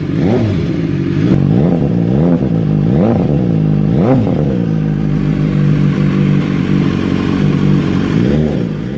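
BMW S1000R inline-four sportbike engine on an aftermarket street-legal exhaust, idling with quick throttle blips: about four short revs in the first half, a steady idle through the middle, and one more blip near the end.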